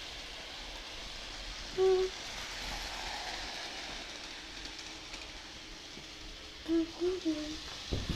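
Hornby Dublo model train running on its three-rail track, a steady whirring hiss. Short voice sounds break in briefly about two seconds in and again near the end.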